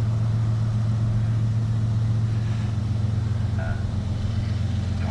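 Steady low engine drone, even and unchanging throughout.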